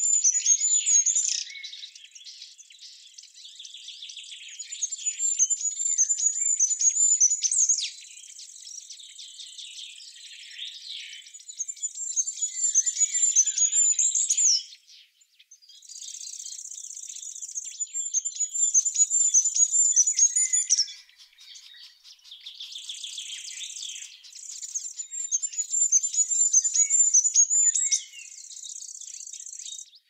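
Birds chirping and singing in high-pitched phrases, loud bursts of a few seconds coming and going with quieter chirping between them.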